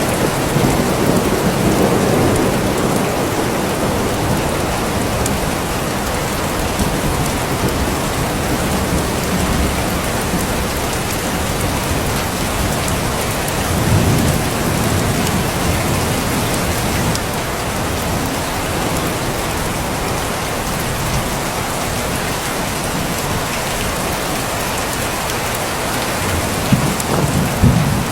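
Steady, heavy rain falling, with low rumbles of thunder rolling in a few times: early on, around the middle and again near the end.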